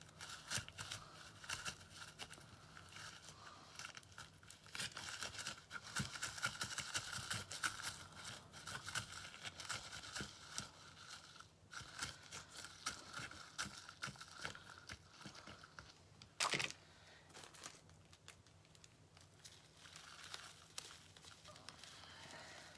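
Crinkling and quick small clicks of craft materials being handled, dense for most of the stretch, with one sharper click about sixteen seconds in.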